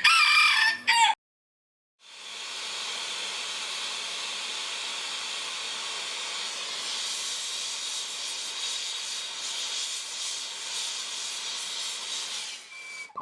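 A steady, even hiss that fades in about two seconds in and runs until just before the end, after a moment of guitar music at the start that cuts off.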